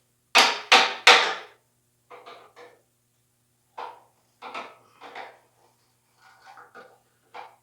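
Hammer blows on metal tractor mounting hardware. There are three hard strikes about a third of a second apart in the first second and a half, then lighter scattered taps and knocks.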